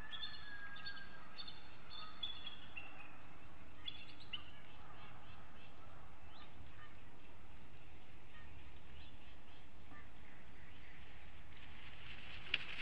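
A bird calling a quick series of high, thin notes that step down in pitch over the first few seconds, then fainter, scattered calls, over a steady outdoor hiss. A sharp snap near the end.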